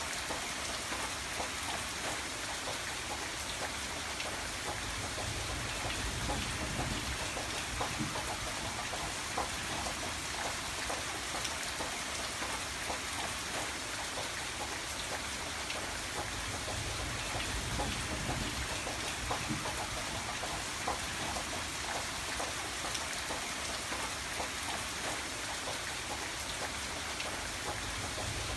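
Steady rainfall, many drops pattering on a surface with an even hiss and no breaks.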